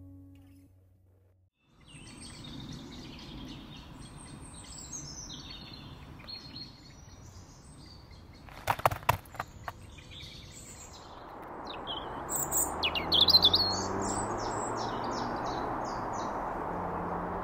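Birds singing and chirping over outdoor background noise, with a short cluster of sharp clicks about nine seconds in; a louder steady rushing noise comes in about eleven seconds in and carries on under further chirps.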